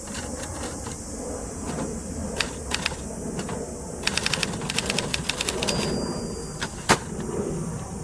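1970s Adler Gabriele 25 manual typewriter being typed on: scattered keystrokes, then a quick run of type-bar strikes, a brief high ring, and one loud clack about seven seconds in.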